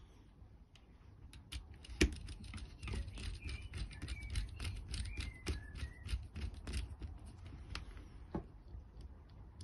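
Irregular clicks and rattles of small plastic and metal RC-car parts and tools being handled and fitted, with one sharp knock about two seconds in; the clicking thins out after about eight seconds.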